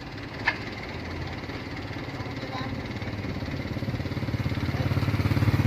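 Diesel dump truck engine running with a fast, even throb that grows steadily louder, as if the truck draws near. A single sharp click sounds about half a second in.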